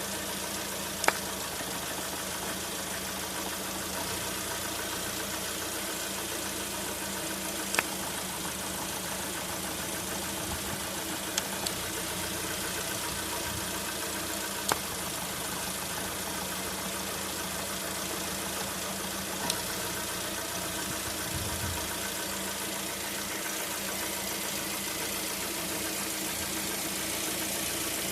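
Lada Vesta 1.6-litre engine idling steadily, with a handful of sharp knocks at irregular intervals several seconds apart: the intermittent knock that the owner takes for piston knock.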